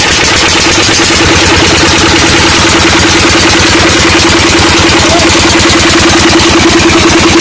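12 hp Petter diesel engine running steadily, belted to a tube-well pump, with an even, rapid knocking beat.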